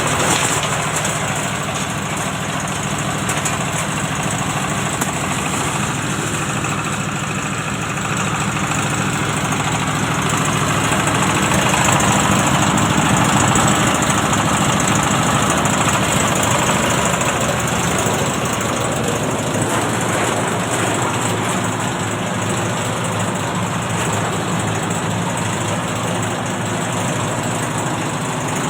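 Engine-driven oil-palm loose-fruit threshing machine running steadily with a low hum and a rattling mechanical noise on top, getting somewhat louder for a few seconds around the middle.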